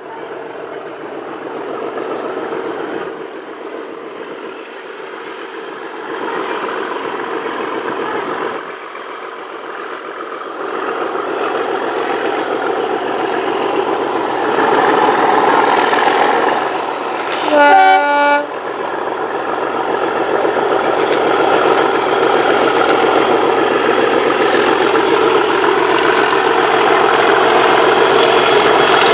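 Class 37 diesel locomotive's English Electric V12 engine working under power, growing steadily louder as it comes closer. About two-thirds of the way through, the horn sounds once for about a second.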